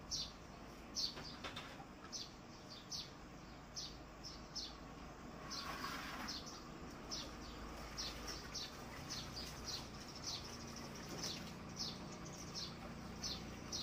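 Small birds chirping over and over: short, high chirps that slide downward, two or three a second, over a low steady background. A brief soft hiss comes about six seconds in.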